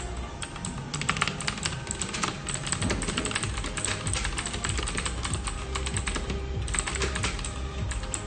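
Computer keyboard being typed on in fast, continuous clatter, starting about a second in with a short break near the end, over a steady low office hum.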